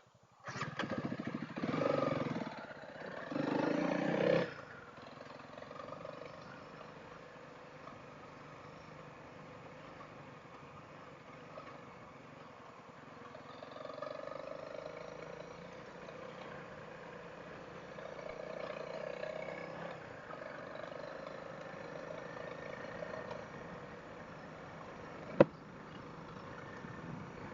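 Single-cylinder dual-sport motorcycle engine running as the bike rides along a rough, grassy trail. It is louder for the first few seconds, then settles into a steady, softer run with slight rises and falls. A single sharp click comes near the end.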